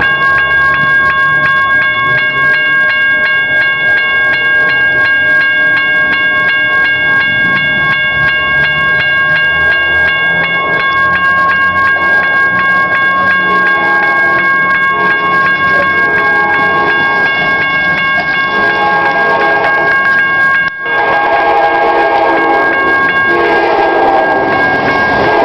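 Railroad crossing bell ringing steadily with rapid strikes as an Amtrak Cascades train approaches, its locomotive engine rumbling. From about halfway through, the locomotive horn sounds a series of long blasts, the crossing signal.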